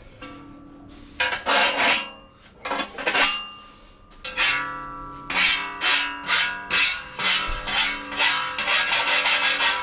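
Hand file rasping across the edge of a sheet-steel repair panel in back-and-forth strokes, a few at first, then a steady run of about two strokes a second from about four seconds in.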